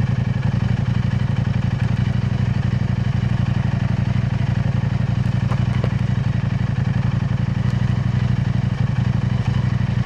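KTM 890 Adventure R's parallel-twin engine idling steadily through an aftermarket Arrow Race-Tech aluminium exhaust, a deep, even low pulse with no revving.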